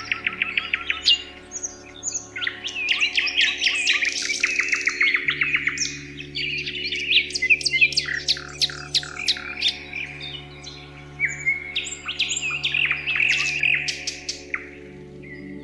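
Several songbirds chirping and trilling, with quick repeated notes and rapid trills coming and going, over a soft steady low drone.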